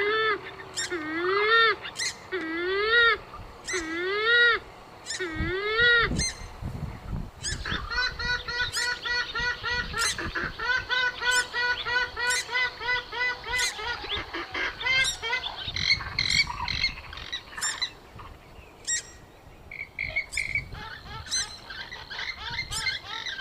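Gallinule (mandar) calls: a string of loud honking notes, each rising and falling in pitch, about one every 0.7 s. About seven seconds in they give way to a fast run of short repeated notes, then looser, irregular calling.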